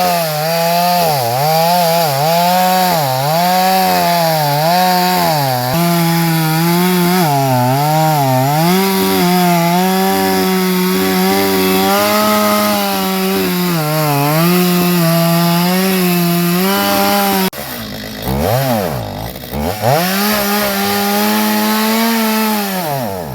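Two-stroke chainsaw running at high revs and cutting pine for firewood, its pitch dipping again and again under load and recovering. About 17 seconds in it falls off briefly, then revs back up and stops abruptly at the end.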